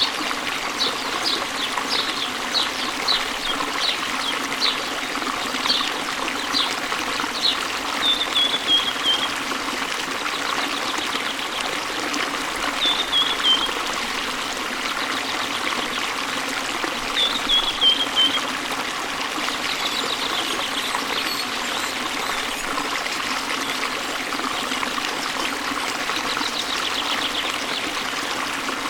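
Waterfall and stream water running steadily, with birds calling over it: short chirps repeated about twice a second for the first several seconds, then three short descending trills a few seconds apart.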